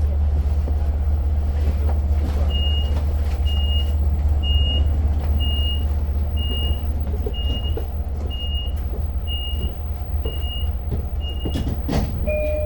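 Steady low rumble of a Long Island Rail Road diesel train running, heard from inside the coach. Over it a short high beep repeats about once a second, ten times, and a two-tone chime sounds near the end.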